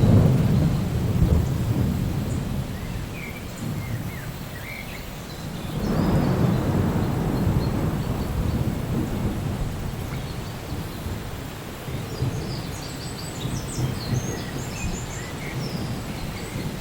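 Rain falling steadily through a thunderstorm, with thunder rumbling twice, once right at the start and again about six seconds in, each dying away over several seconds.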